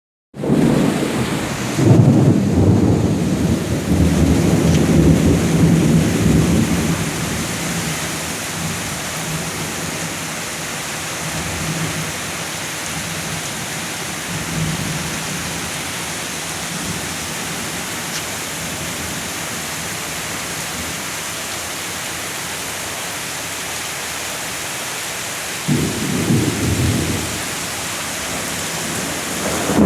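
Steady rain falling, with thunder rumbling twice: a long roll in the first several seconds and a shorter one near the end.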